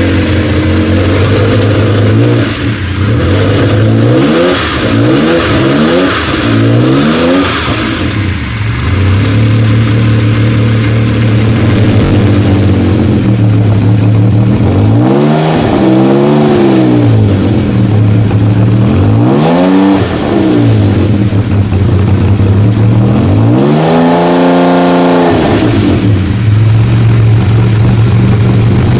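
Jaguar XJ220's twin-turbo 3.5-litre V6 idling and being revved in neutral: a few quick blips in the first seconds, then three longer revs that climb and fall back to idle, the last one the highest, near the end.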